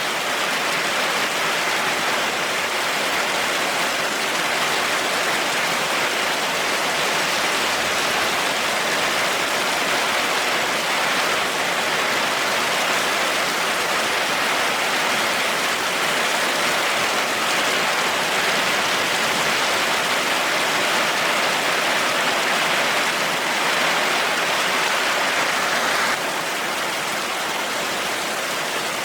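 Heavy rain falling steadily, an even hiss of water with no thunder; the level drops slightly and suddenly near the end.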